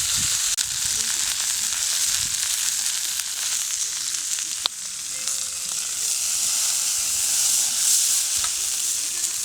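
Food frying and sizzling over a campfire: a steady hiss, with one sharp click about four and a half seconds in.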